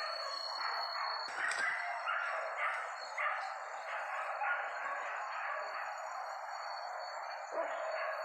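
Hunting dogs barking and yelping, with several sharper barks in the first half, over a steady high-pitched tone.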